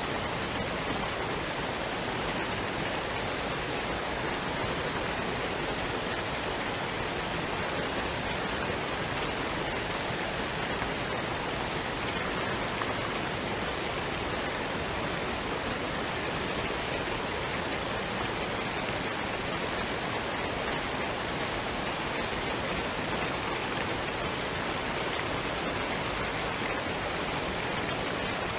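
Waterfall and stream water running: a steady, even rush of falling and flowing water that does not change.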